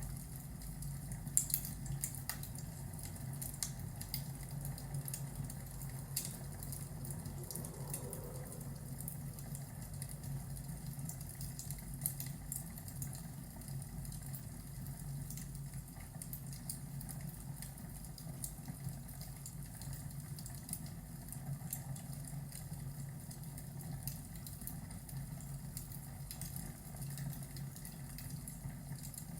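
Fireplace ambience: scattered small crackles and pops over a steady low rumble.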